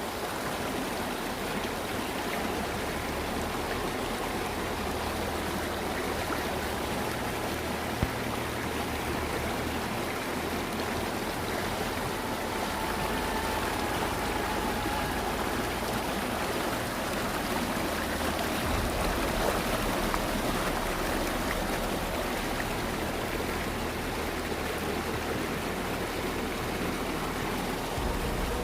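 Swollen river after heavy rain, its fast, high water rushing steadily. A single short click about eight seconds in.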